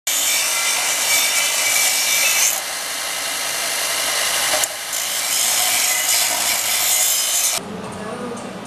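Power tool grinding steel exhaust tubing: a loud, steady, harsh rasp that eases slightly twice and stops near the end.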